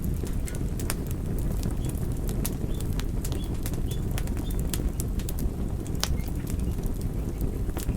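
Wood fire burning, with a steady low rush of flames and frequent sharp crackles and pops at irregular intervals.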